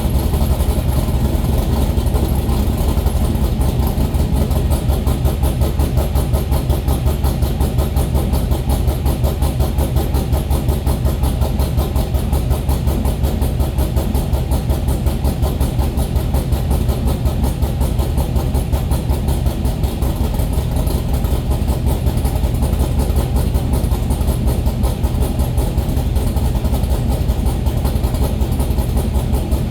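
Vehicle engine idling steadily after a cold start, with a fast, even pulsing beat like a drum roll.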